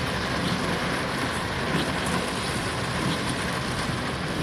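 Steady rushing noise of a vehicle driving through floodwater in heavy rain, with no single sound standing out.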